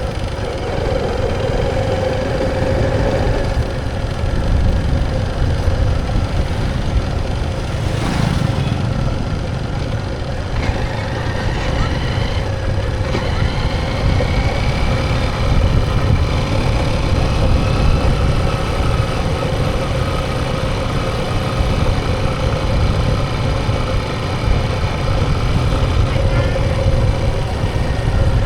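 Motorcycle engine running steadily under a continuous low rumble, its pitch shifting a little partway through.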